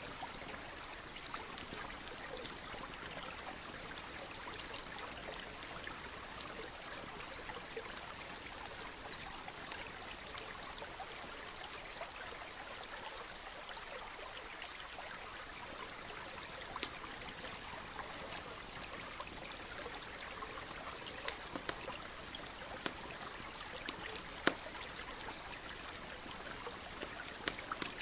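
Campfire crackling, with scattered sharp pops and snaps that come more often near the end, over the steady rush of a nearby stream.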